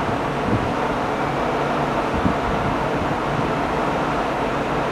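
Steady rumble and hiss of a departing electric train running out of the station, mixed with station background noise.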